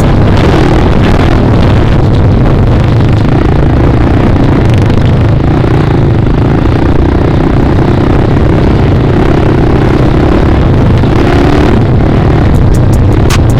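Dirt bike engine running at a steady speed while the bike is ridden, loud and close, with a few sharp ticks near the end.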